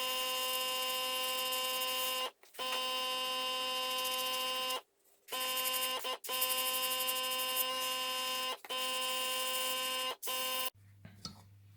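Small airbrush compressor humming steadily, with a hiss of air, broken off by several abrupt silences. Near the end only a faint low hum remains.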